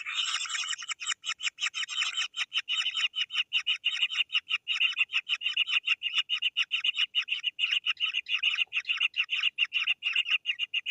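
Kingfisher chicks giving rapid, harsh begging calls, about six short calls a second without a break: hungry young birds clamouring for food.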